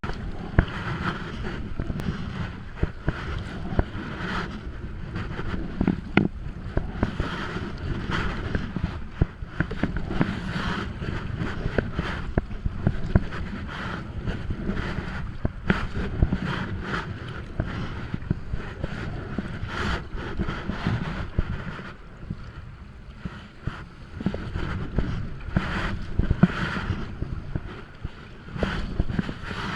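Wind buffeting the microphone over water sloshing and splashing around kayaks being paddled out to sea, with repeated short splashes from the paddle strokes.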